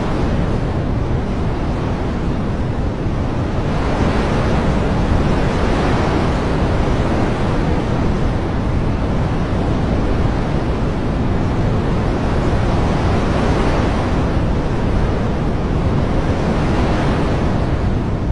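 Loud continuous rushing of water, swelling and easing in slow surges every few seconds.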